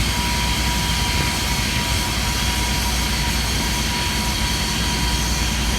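Steady loud roar of a vehicle in motion, mixed with wind noise, carrying a faint steady hum; it cuts off abruptly at the end.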